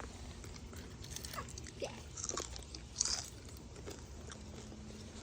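Someone chewing and crunching food close to the microphone, with scattered small crunches and one sharper crunch about three seconds in.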